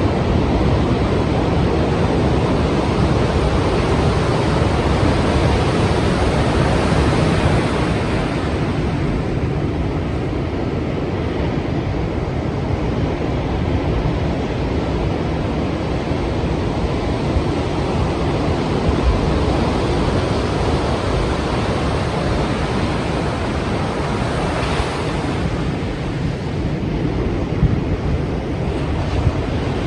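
Strong sea waves breaking, a continuous wash of surf. It is a little louder in the first several seconds and eases slightly after, with a brief hissing surge of wash late on.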